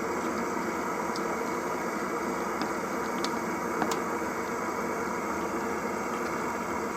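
Propane burners running with a steady hiss: a Jetboil stove heating water alongside a propane space heater warming a pan. A few faint ticks are heard.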